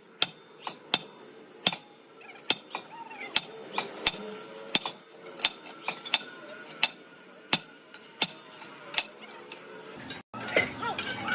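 Light metal-on-metal tapping in a steady, slightly uneven rhythm, about two to three sharp taps a second. It cuts off suddenly near the end, and busier workshop noise follows.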